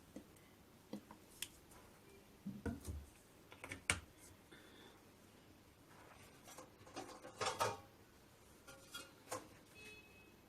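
Light clicks, knocks and a short clatter of a kitchen dish being handled as marinated chicken pieces are laid in it.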